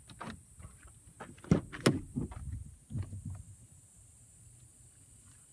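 Pickup truck's rear cab door being unlatched and opened: a run of sharp clicks and knocks, the loudest two about a second and a half and two seconds in, then softer knocks dying away by about three and a half seconds.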